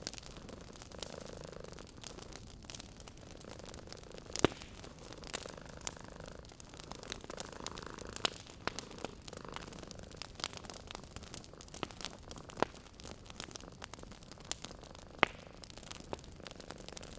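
Wood fire crackling with many small sharp pops, four of them loud, over a cat's gentle purring that comes and goes in soft, second-long swells.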